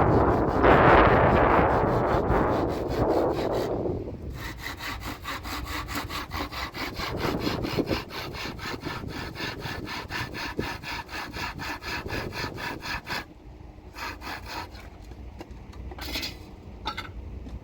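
Hand saw cutting wood in quick, even strokes, after a few seconds of louder rushing noise. The sawing stops about three-quarters of the way through, and a few scattered strokes follow near the end.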